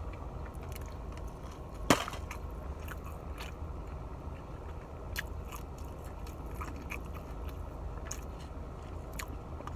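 Close-up chewing with wet mouth clicks and smacks, played up on purpose for a mukbang. One sharp smack comes about two seconds in.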